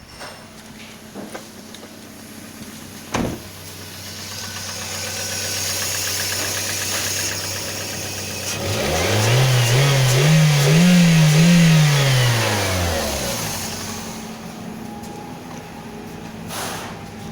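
Toyota 1NZ-FE 1.5-litre four-cylinder engine idling, then revved in stepped blips up to mid revs for about four seconds and let fall back to idle. A single sharp click sounds about three seconds in.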